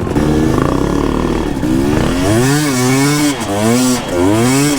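Two-stroke enduro dirt bike engine (Husqvarna TE 250i) revving up and down over and over, its pitch rising and falling about once a second as the rider works the throttle through deep mud.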